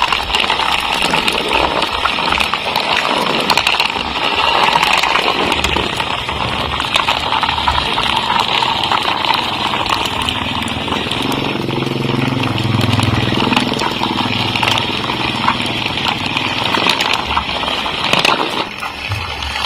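Small DC motor running with a steady buzzing whir and a crackling rattle, with a lower hum joining in about halfway through.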